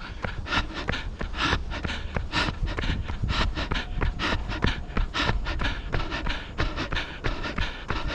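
A runner's hard, rhythmic breathing and footfalls at running pace, two to three strokes a second, over a steady low rumble of wind on the microphone.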